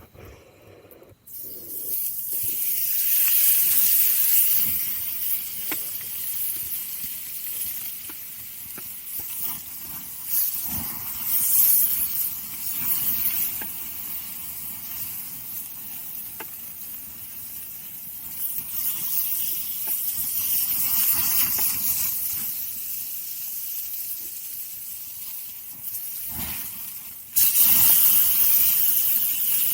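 Meat sizzling loudly on a hot grill over a campfire. The sizzle starts suddenly about a second in, swells and fades, and jumps louder again near the end, with faint crackles from the fire.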